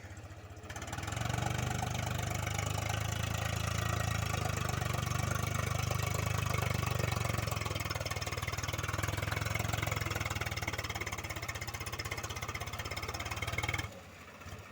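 Swaraj tractor's diesel engine running steadily. It gets louder about a second in and drops away abruptly near the end.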